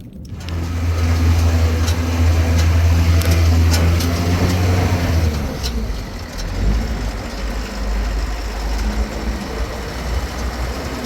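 An engine running with a steady low hum that drops to a lower pitch about five seconds in, with faint clicks over it.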